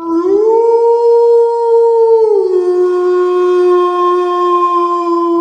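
A wolf howling: one long howl that rises at the start, holds a steady note, then drops to a lower note a little after two seconds in and holds there.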